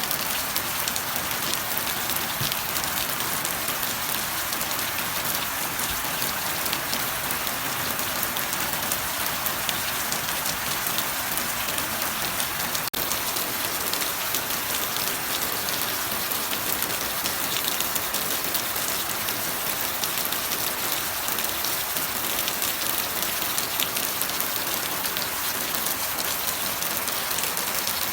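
Steady heavy rain falling, a dense even patter of drops with no thunder, broken only by a split-second gap about halfway through.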